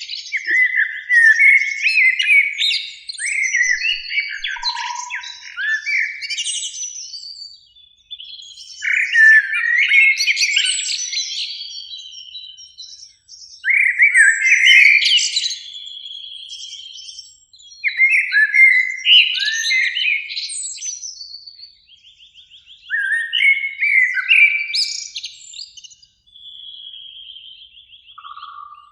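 Common blackbird (Eurasian blackbird) singing: a run of about six warbling, whistled song phrases, each a few seconds long, with short pauses between them.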